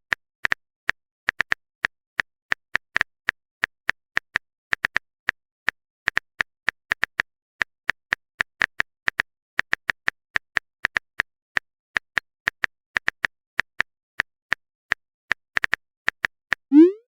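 Keyboard-typing sound effect: irregular quick taps, a few a second, as a text message is typed out.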